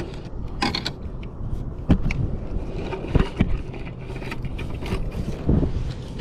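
Irregular knocks and scrapes of fishing gear being handled on a kayak, over a low rumble of wind on the microphone. Sharp knocks come about two seconds in, then twice just after three seconds.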